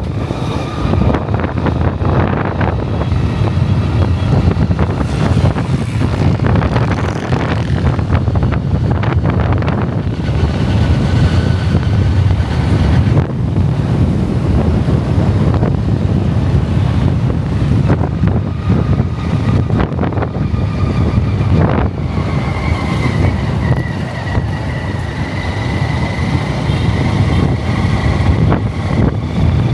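Motorcycle running while being ridden, with wind buffeting the microphone.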